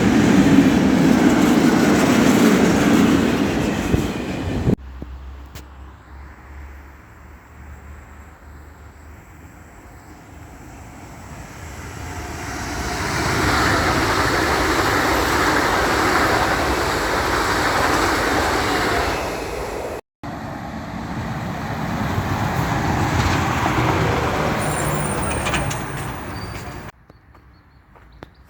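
Passenger trains running past on the track, in several clips cut together: one train rolling by loudly, then a quiet stretch with a low hum, then another train growing louder as it approaches and passes, and a third passing before an abrupt cut to quiet.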